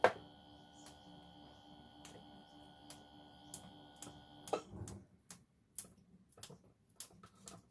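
Scattered light clicks and taps, like kitchen items being handled, with a sharp click at the start. A soft held background tone stops about halfway through.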